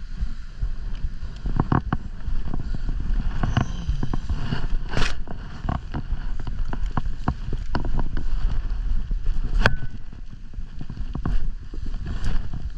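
Low rumble of wind buffeting the microphone, with scattered irregular clicks and knocks from handling and movement.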